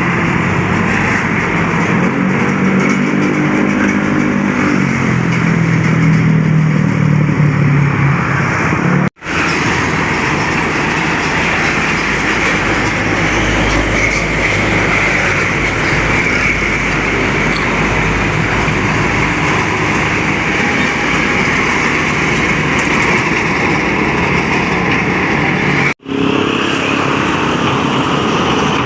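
Road traffic on a highway: trucks and other vehicles driving past, with one engine's drone rising and falling over the first several seconds. The sound breaks off abruptly twice where the footage is cut.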